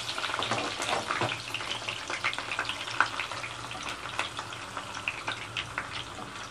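Hot oil sizzling and crackling with many small pops as curry leaves and marinated chicken fry in the pan, easing slightly quieter toward the end.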